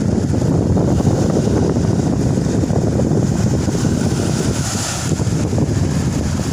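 Strong wind buffeting the microphone over the rumble of big surf, with a brighter rush of breaking water swelling about four to five seconds in.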